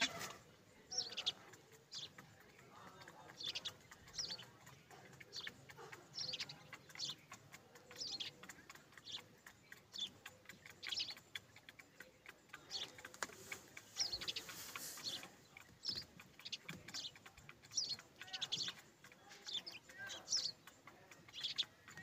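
Birds chirping: short, high-pitched chirps repeating about once or twice a second, with a brief hissing rush partway through.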